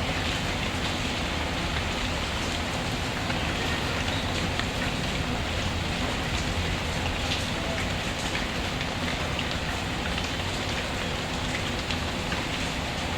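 Steady rain falling, with a few faint crackles from a wood fire.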